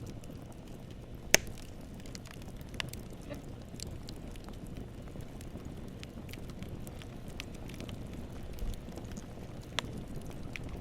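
Wood campfire burning: a steady low rumble of flames with scattered crackles, and a sharp loud pop about a second in.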